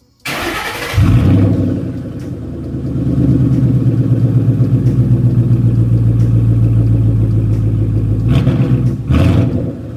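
2012 Mustang GT's 5.0 V8 cranked and started, catching about a second in with a loud flare before settling into a steady idle. Two short bursts of noise come near the end.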